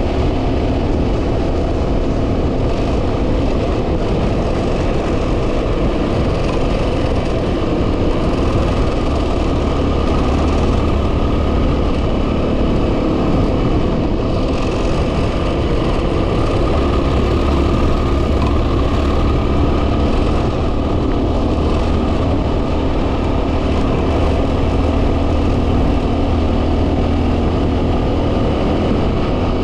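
Heavy wind buffeting on the microphone over a 2010 Yamaha WR250R dual-sport motorcycle's single-cylinder engine running steadily while riding.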